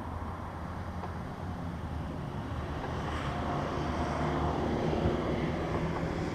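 2004 Volvo S60R's turbocharged five-cylinder engine running through a custom 3-inch exhaust: a steady low drone that swells a little in the middle and eases off near the end.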